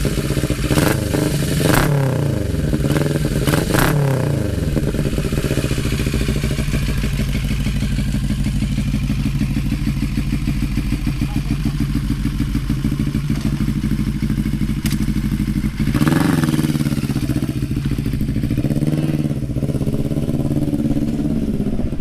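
CFMoto 400NK's parallel-twin engine idling through an aftermarket SC Project-style exhaust. It is blipped several times in the first four seconds, then settles to a steady idle, with another brief rev about sixteen seconds in.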